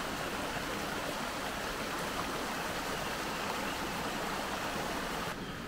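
Kolekole Stream's water running, a steady even rushing noise. It turns abruptly duller just before the end.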